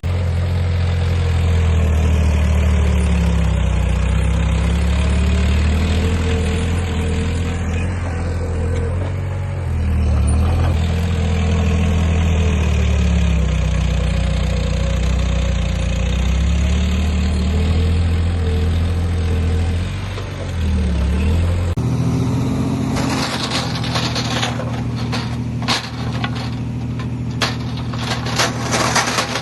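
Heavy diesel engine of earthmoving machinery working, its pitch rising and falling with the load. About 22 seconds in, the sound changes abruptly to a lower steady engine hum with rapid, irregular clatter and clicking.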